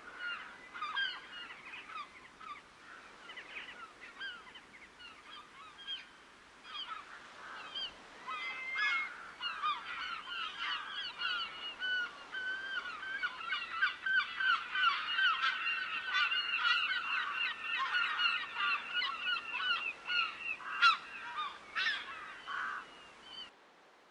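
A flock of waterbirds calling: many short, pitched honking calls, scattered at first, then thickening into a dense overlapping chorus about halfway through. The sound cuts off abruptly near the end.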